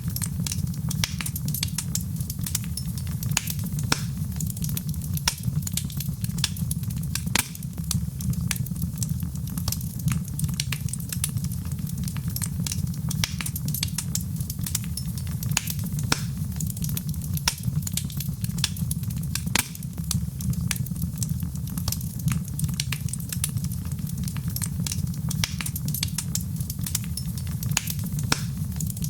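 Wood fire burning in a fireplace, crackling and popping with many sharp snaps over a steady low rumble of the flames.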